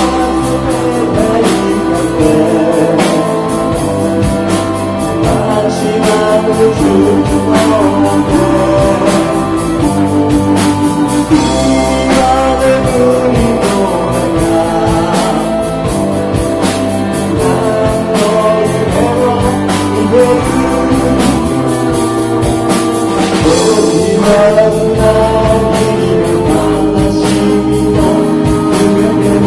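Live rock band playing: electric guitar lines over bass and a steady drum beat, loud and continuous.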